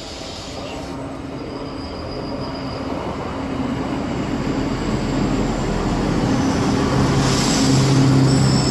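Regional train approaching along the platform and passing close by, its rumble growing steadily louder, with a steady low hum and faint high-pitched wheel squeals.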